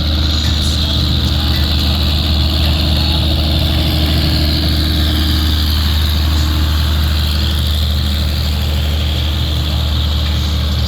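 Truck engine idling with a steady low hum, a steady high hiss above it.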